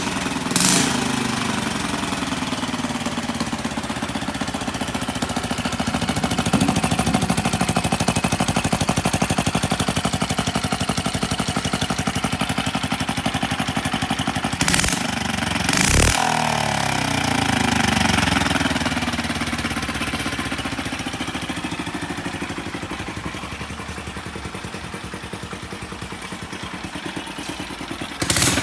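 Honda Solo AC17's small single-cylinder four-stroke engine running just after start-up, mostly idling. Its revs rise and fall with throttle blips about halfway, with a few sharp knocks there and one more near the end.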